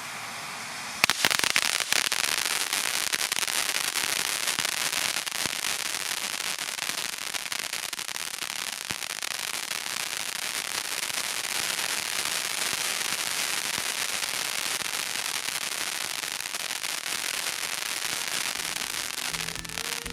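Dense, rapid crackling from fireworks going off, starting suddenly about a second in with a few loud pops, then settling into a steady crackle that stops just before the end.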